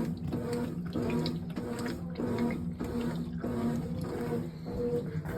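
Brastemp 18 kg top-loading washing machine agitating in turbo mode during the wash stage: the motor hum switches on and off in quick strokes while water and clothes slosh in the tub about twice a second.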